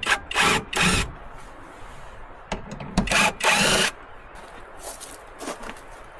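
Wood being worked with a hand tool: two pairs of short scraping strokes, the first just after the start and the second about three seconds in, with a few light knocks between them.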